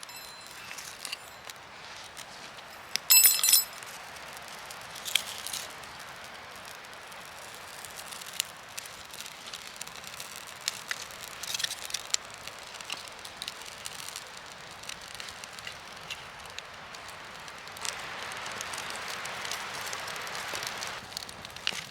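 Wood campfire crackling with scattered pops and snaps. About three seconds in comes one loud metallic clink.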